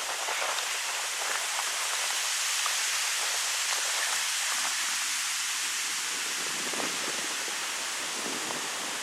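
Wind blowing through birch trees on a mountain pass: a steady rushing hiss with faint rustling crackles, swelling a little midway and easing toward the end.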